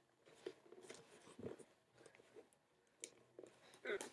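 Faint, scattered scrapes and taps of fingers working at a tablet's product box, trying to get it open, with a louder brief rustle near the end.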